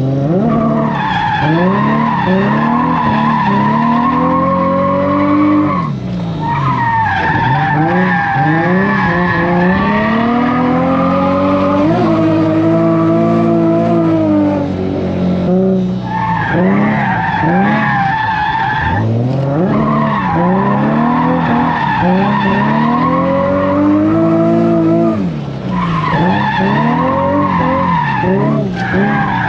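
Turbocharged Nissan VQ V6 drift car sliding through corners: the engine revs up and down over and over, with the tyres squealing through the slides. The sound briefly drops away several times between corners.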